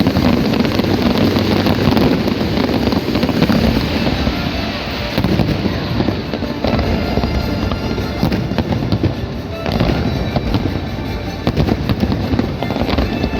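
Large aerial fireworks display, a continuous dense barrage of bangs and crackling with no pause.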